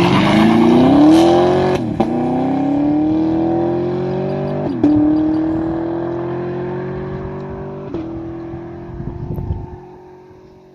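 2019 Camaro SS's 6.2-litre LT1 V8 under full throttle with the active exhaust valves open (track mode), accelerating hard. The pitch climbs and drops back at each of three quick upshifts of the 10-speed automatic, about 2, 5 and 8 seconds in. The sound fades as the car pulls away.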